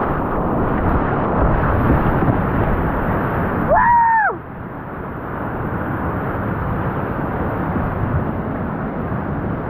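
Whitewater rapids rushing loudly and steadily, heard close up on a small action-camera microphone. Near four seconds a short rising-then-falling call sounds, and the rushing then drops somewhat.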